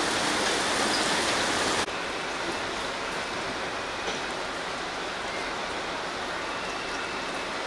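Heavy rain falling, a steady hiss that drops suddenly in level about two seconds in.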